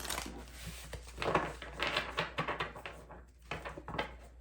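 Tarot cards and small objects being handled on a desk: papery rustling with irregular light clicks and taps.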